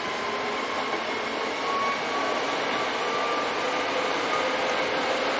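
Nose Railway electric commuter train running along the track, heard inside the driver's cab: a steady rolling noise of wheels on rail with faint whining tones, growing slightly louder.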